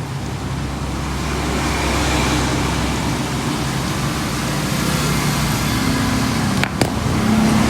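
Steady motor-vehicle engine and road noise, like traffic running close by, swelling over the first two seconds and then holding, with a couple of sharp clicks near the end.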